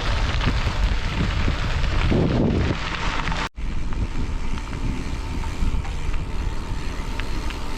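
Wind rushing over the microphone while riding a bike, with a brief dropout about three and a half seconds in.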